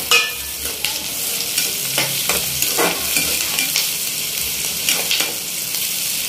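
Sliced onions, curry leaves and green chillies sizzling in hot oil in a metal pan, with a steady hiss, while a metal spatula stirs them, scraping and knocking against the pan several times, the loudest knock right at the start.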